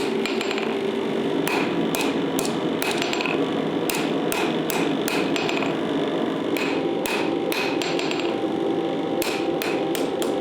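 Hammer blows on steel at an anvil, forging the spring steel: runs of sharp ringing strikes, about two to three a second, broken by short pauses, over a steady rushing noise.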